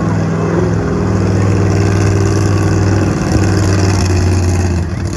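Monster truck engine running loud and fairly steady, with a slight drop near the end.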